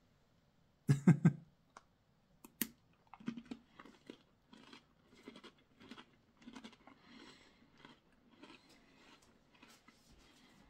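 A person chewing crunchy fennel-seed treccine, small braided crackers like taralli: a louder crackle about a second in, then a run of crisp crunches a few times a second.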